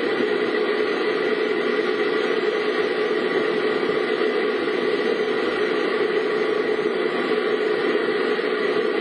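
Steady vehicle noise heard from inside the cabin of a car on the road: an even hum and hiss of engine and road noise that doesn't change.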